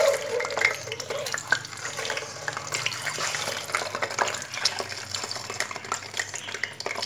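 Peeled boiled eggs frying in hot oil in a pan: a steady sizzle with a dense crackle, loudest right at the start, as the eggs are added one by one.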